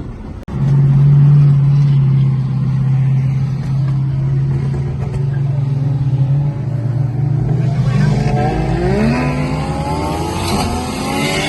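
Car engine running loud at a steady pitch, then accelerating hard with its pitch rising in a series of climbing sweeps over the last few seconds.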